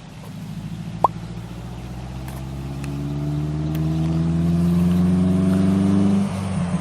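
Car engine accelerating, its pitch climbing steadily for a few seconds and then dropping suddenly near the end as the revs fall away. There is a sharp click about a second in.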